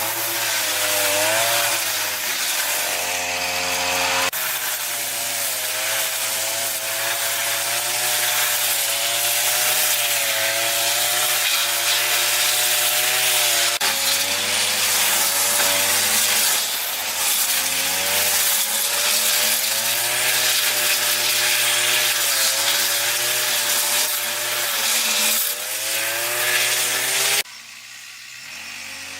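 Chainsaw running and cutting into wood, its engine pitch wavering up and down with the load. The sound breaks off sharply near the end.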